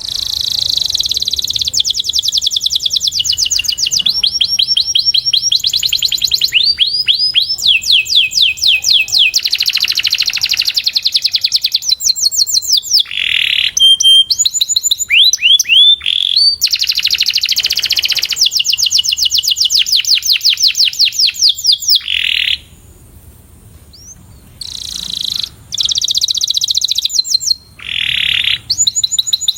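Canary singing: fast rolling trills of repeated downward-sweeping notes, switching to a new trill every second or two, with a short break about three-quarters of the way through.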